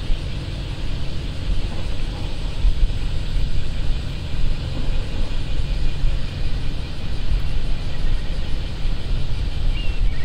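Wind buffeting the microphone over a steady low rumble, swelling and dipping irregularly.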